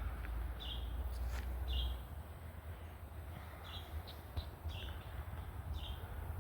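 A bird calling with short, high chirps repeated about once a second, with a brief pause in the middle.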